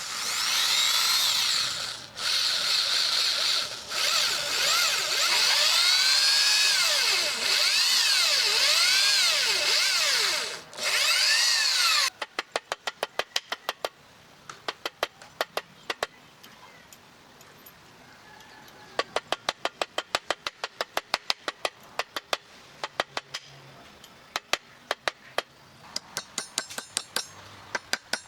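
A power drill runs in several long bursts with short pauses, its pitch sweeping up and down as the load changes, then stops about twelve seconds in. After that come runs of quick, sharp taps, several a second.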